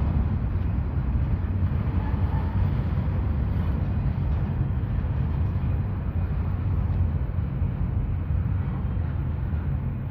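Train's steady low rumble.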